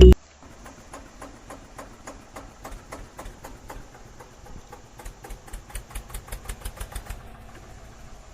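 A small engine or motor running with an even ticking beat that quickens about five seconds in.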